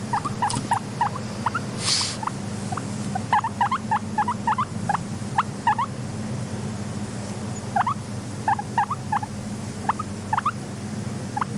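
Guinea pigs making short, rising squeaks in quick irregular clusters over a steady low hum, with a brief hiss about two seconds in.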